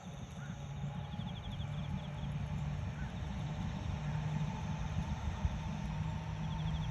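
A low rumble with a steady low hum underneath. Over it come faint trains of high, rapid insect chirps that repeat several times.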